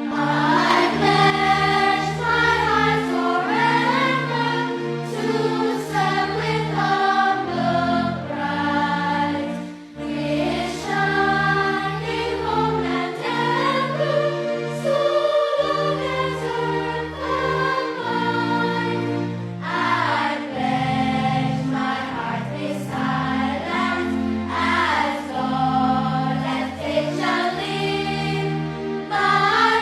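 Choral music: a choir singing held, slow chords over a sustained low accompaniment.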